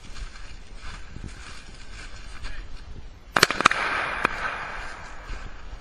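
A quick cluster of about three sharp bangs a little past halfway, followed by a hissing rush that fades away.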